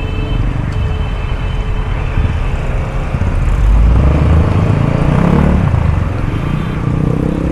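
Road traffic in a jam: vehicle engines running under a steady hiss, one engine's rumble growing louder about four seconds in and easing after about six.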